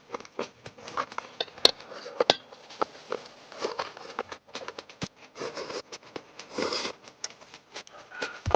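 Eating at the table: scattered sharp clicks and taps, such as chopsticks on bowls, mixed with short slurping and chewing noises, with a longer slurp near the end.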